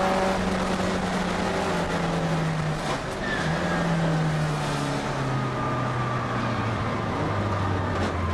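Racing VW Fusca (Beetle) fitted with a VW AP four-cylinder engine, heard from inside the cabin under racing load. The engine note falls steadily as the car slows, with a short break about three seconds in after which the pitch steps up, and starts climbing again near the end.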